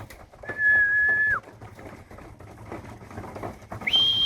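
Two long, steady whistled notes, the second higher than the first, each ending with a short drop in pitch: a keeper's call-in whistle to bring racing pigeons down into the loft.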